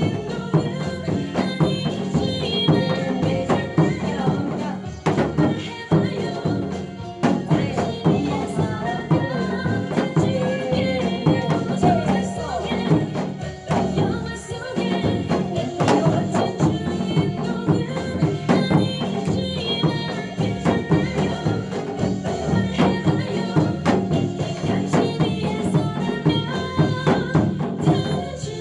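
Janggu (Korean hourglass drum) struck in a fusion disco/go-go rhythm, played along to a recorded trot song backing track, with frequent sharp drum strokes over the melody.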